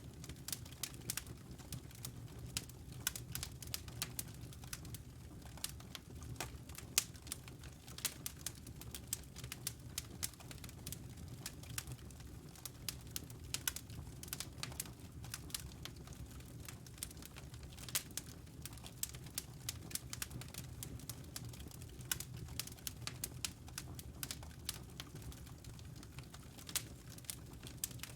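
Wood fire crackling in a fireplace: many irregular sharp pops and snaps of varying loudness over a low steady rumble.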